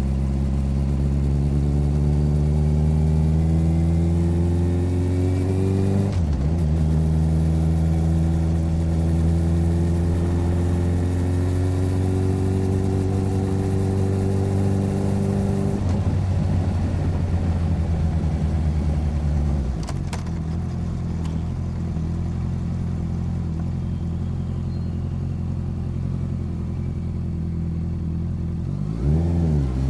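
Motorcycle engine recorded close to the bike under way, its pitch climbing as it accelerates, dropping at a gear change about six seconds in, then climbing again. Past halfway it eases off and runs steadily at a lower pitch, with a quick rev near the end.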